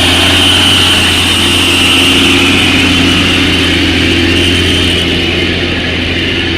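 Heavy tanker truck's diesel engine pulling steadily up a steep incline, loud and continuous, easing off slightly near the end.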